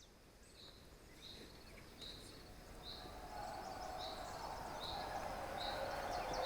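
Outdoor ambience fading in: a bird gives short repeated calls about once a second over a background hiss that grows steadily louder.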